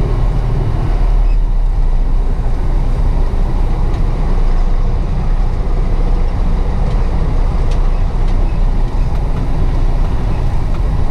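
Truck engine running: a steady low rumble.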